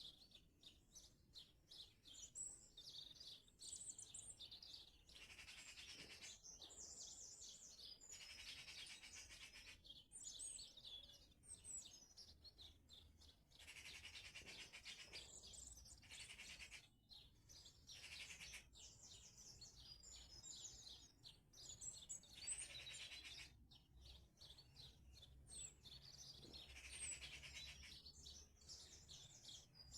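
Songbirds singing: faint, short twittering and trilled phrases following one another every second or two.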